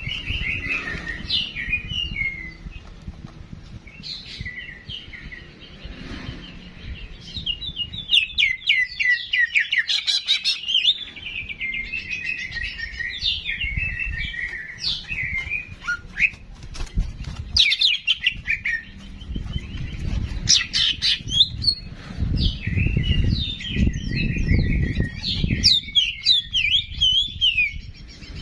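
Songbird singing rapid, high, varied chirps and trills in bursts with short pauses, as played on a bird-song training recording. A low rumble sits under the song in places, heaviest near the end.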